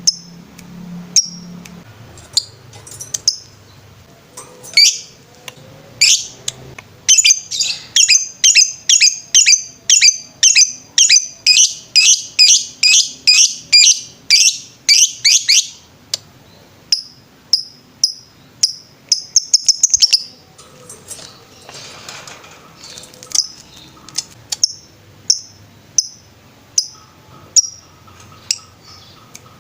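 Lovebird singing in the rapid 'ngetrek' style: loud, sharp, high chirps. They come singly at first, then in a fast even run of about two to three a second for some nine seconds, then singly again.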